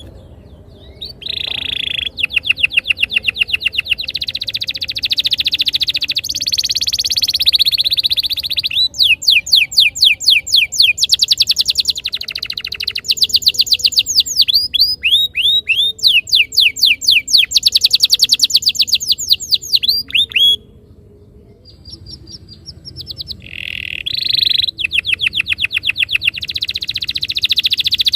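Domestic canary singing long rolling trills of rapidly repeated notes and quick sweeping chirps. It breaks off briefly about two-thirds of the way through, then starts up again.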